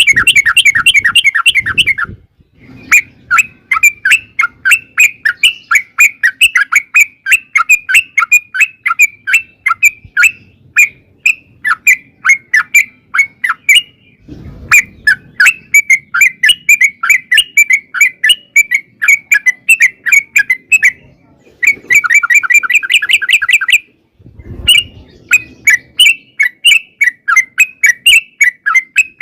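Yellow-vented bulbul (trucukan) singing a long, loud chattering song of quick repeated notes, with rapid trills near the start and about 22 seconds in. The song breaks off briefly about 2, 14 and 24 seconds in, and each restart begins with a brief low thump.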